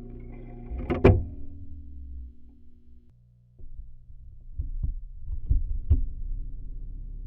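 TEAC A-4010 SL reel-to-reel tape deck heard through a contact microphone on its body. A loud mechanical clunk about a second in, with the motor hum dying away about three seconds in. A string of clicks and knocks from the transport mechanism follows before a steady hum returns near the end.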